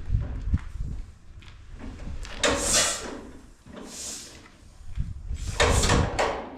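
The two-cylinder engine of a 1936 John Deere Model A is turned over by hand at the flywheel without firing. Irregular hissing puffs and low knocks come as the pistons come up on compression, with no steady running beat.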